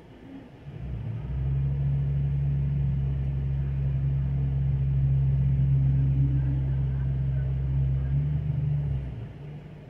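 A vehicle engine running with a steady low drone. It swells up about a second in and stops abruptly about a second before the end.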